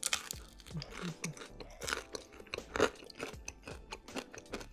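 A person chewing and crunching on thin, crispy pizza crust close to the microphone, in a long irregular run of sharp crunches.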